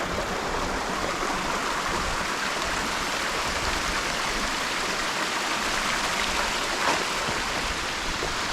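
Steady rush of falling and running water from a small waterfall running with low flow.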